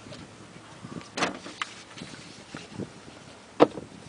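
Small handling noises at a parked car, then a car door shutting with a sharp thump about three and a half seconds in.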